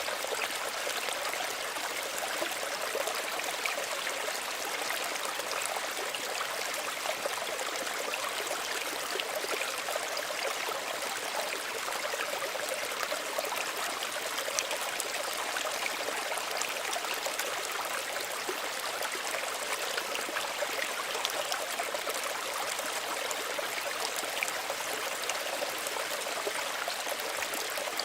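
Small stream of running water, a steady babbling and trickling with many small splashes and no pauses.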